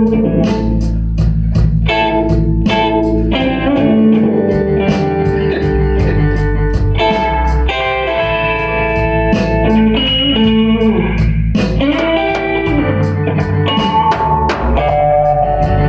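Blues-rock band playing instrumentally, an electric guitar leading with bent notes over bass and steady drums and cymbals.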